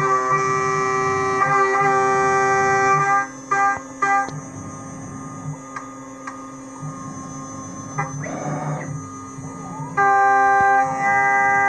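8 mm three-flute end mill at 8000 rpm cutting V95 aluminium alloy on a homemade CNC machine: a loud, steady high whine with overtones while in the cut. About three seconds in the whine stops and a quieter running with a few clicks and a brief hiss follows. The loud cutting whine returns near the end.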